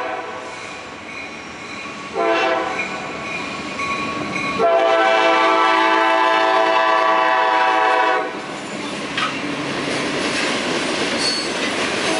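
Freight train's diesel locomotive air horn sounding for a grade crossing: one blast starting about two seconds in, then a longer, louder blast that stops about eight seconds in. After it the locomotive and freight cars roll by with a steady rumble and clatter of wheels on the rails.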